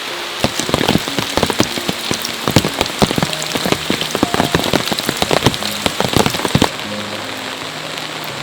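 Rain falling, with a steady hiss and large drops striking a surface in quick, irregular succession. The drop strikes stop abruptly near the end. Soft music plays underneath.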